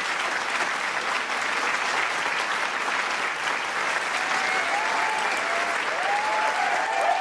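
A large crowd applauding steadily, a dense patter of many hands clapping, with cheering voices rising through it from about four seconds in.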